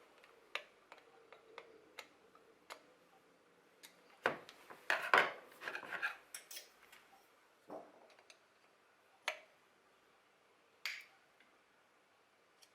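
Scattered light clicks and knocks of small metal tools being handled while a boring bar's tool bit is loosened and adjusted, with a busier cluster of clatter about four to six seconds in.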